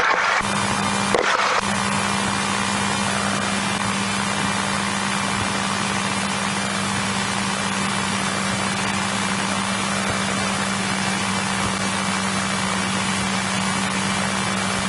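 Steady cockpit noise in a Cessna 172E heard through the intercom recording: an even hiss with a constant low hum. A couple of brief knocks come near the start.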